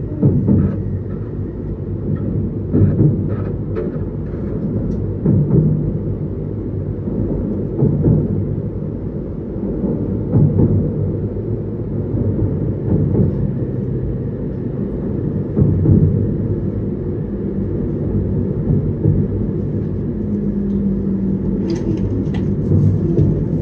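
Inside a Joetsu Shinkansen car running at low speed into its terminus platform: a steady low rumble from the running gear, with occasional short knocks and a few light clicks near the end.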